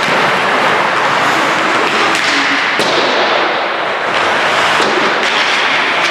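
Ice hockey play: a steady hiss of skate blades scraping the ice, broken by several sharp clacks of sticks and puck.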